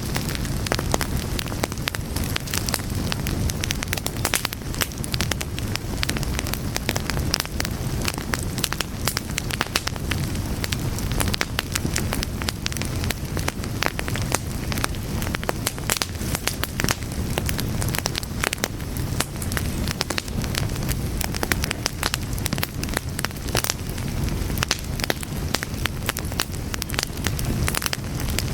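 Wood fire burning, with dense crackling and sharp pops over a steady low rumble of the flames.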